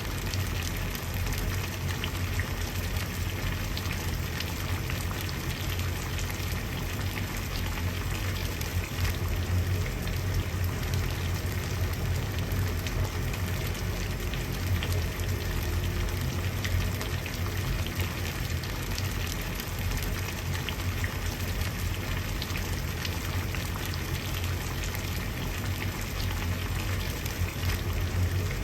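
Water at a steady rolling boil: continuous dense bubbling and popping over a low rumble, unchanging throughout.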